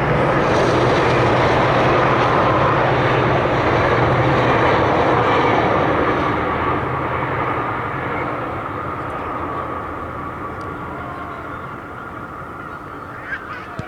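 An aircraft passing over: a loud, steady engine noise with a low hum that fades away gradually through the second half. A short sharp sound comes near the end.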